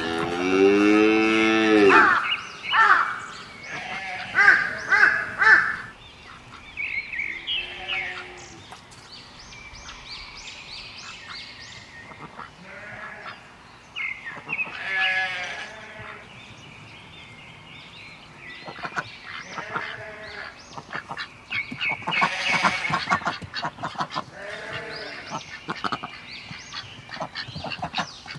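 Farm animal calls: a long, low pitched call in the first two seconds, then many short honking calls of geese or ducks and other fowl throughout.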